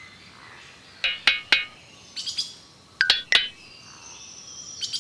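Birds chirping: three groups of quick, high, sharp notes about a second apart, then a long thin whistle that slowly falls in pitch near the end.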